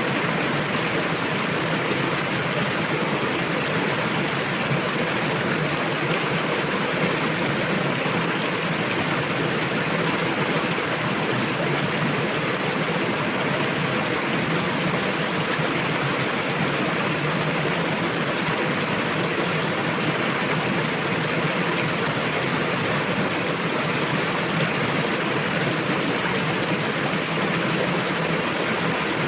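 A fast river rushing over rocks, a steady, loud wash of water that holds even throughout.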